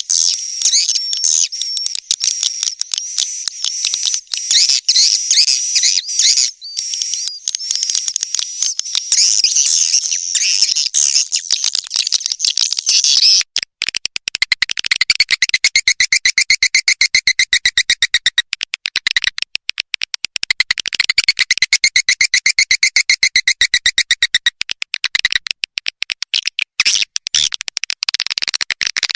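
Swiftlet nest-house lure call: dense, high chirping. About halfway through it changes to a very fast, even train of clicks with chirps running over it.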